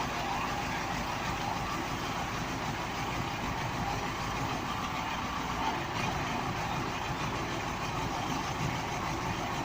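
A truck engine running steadily at idle.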